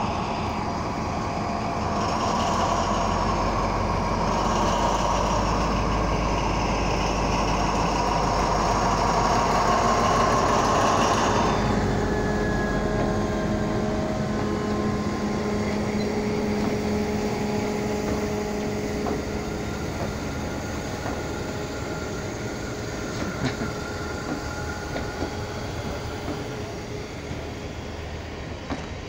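A train hauled by an SNCF BB 67000-class diesel locomotive and a 140 C steam locomotive passes close by at low speed. The diesel's engine runs loud with a steady whine and low rumble for the first twelve seconds or so, then falls away. The coaches roll past with wheels clicking over the rail joints near the end.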